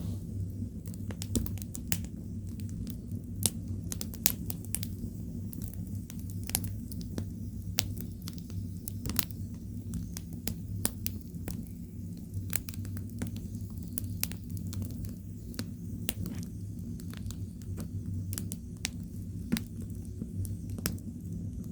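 Burning firewood crackling and popping in sharp, irregular snaps over a steady low hum.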